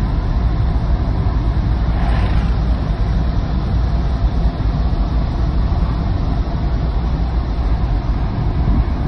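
Safari jeep driving: a steady engine and road rumble with a heavy low drone.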